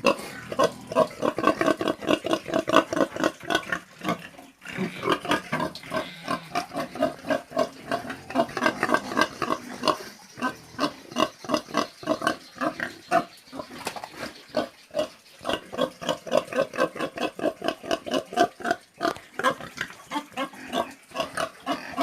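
Pig grunting in a fast, continuous series of short grunts, several a second, with a couple of brief pauses.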